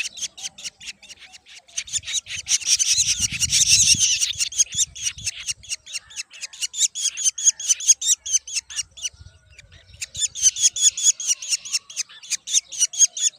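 Black drongo nestlings giving rapid, high begging chirps, about five or six a second, that swell louder twice as food is brought. Low rustling comes and goes under the chirps.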